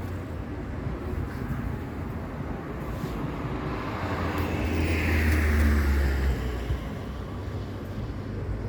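Steady low rumble of outdoor motor traffic, with a vehicle passing that grows louder about four seconds in and fades by about six and a half seconds, its pitch falling as it goes by.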